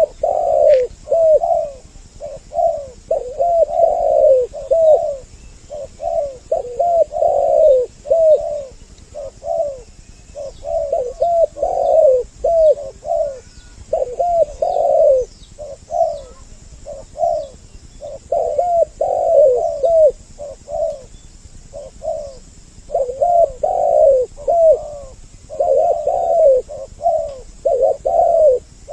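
Spotted doves (tekukur) cooing over and over, two birds' calls overlapping in a doubled chorus of short phrases with only brief gaps; a dove lure call for drawing doves in.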